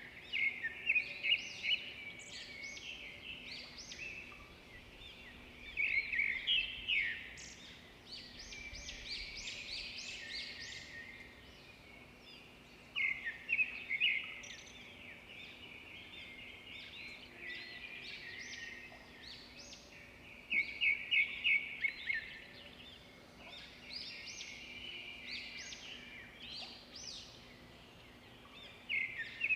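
Birdsong: birds chirping, with loud phrases of fast repeated notes every several seconds over quieter continuous twittering.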